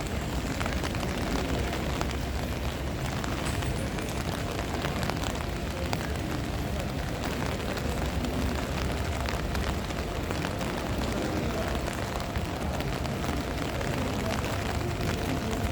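Wind buffeting the microphone in a steady low rumble, with a constant crackle of rain.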